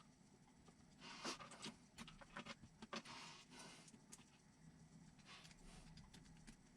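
Near silence with faint, scattered clicks and soft rustles of small plastic and metal parts being handled, clustered about one to three and a half seconds in.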